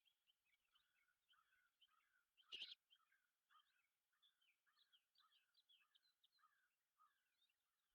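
Faint songbirds chirping and singing, a steady run of short quick notes, with one brief, louder noisy call about two and a half seconds in.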